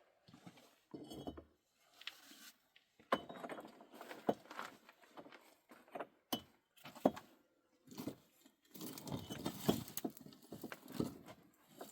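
Irregular clicks, knocks and clatter, with a longer rustling, scraping stretch about nine seconds in.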